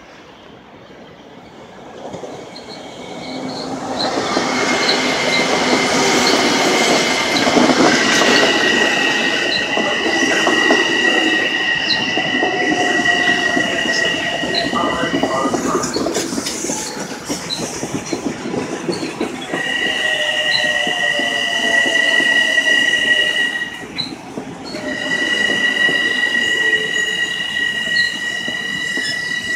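A train coming in and running close past, growing loud about two seconds in, its wheels squealing in two steady high tones that break off and come back, over the rumble of the cars and light clicks about once a second.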